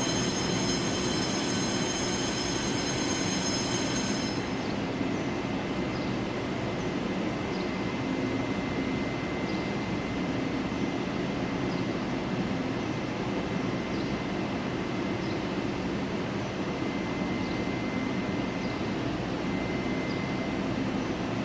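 Steady rumble and hiss of a moving vehicle, with a high whine of several tones that cuts off about four seconds in.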